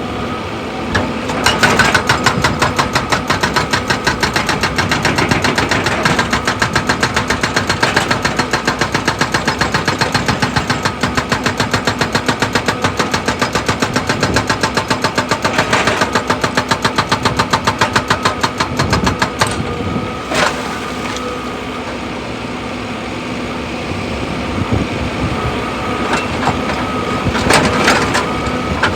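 Excavator at work: its engine running under a rapid, even pounding of about ten strokes a second, which eases for several seconds about two-thirds of the way through and then starts again near the end.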